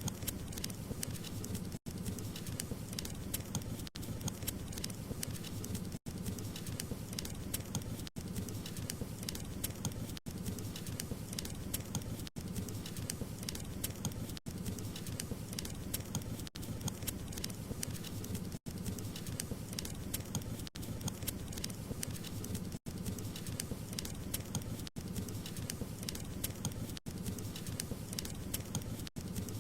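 Wood fire crackling: a steady low rush of flames dense with small crackles. It drops out briefly about every two seconds.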